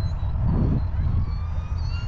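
Faint whine of a flying wing's electric motor and 5-inch three-blade propeller at full throttle, rising slightly in pitch, over a steady low rumble.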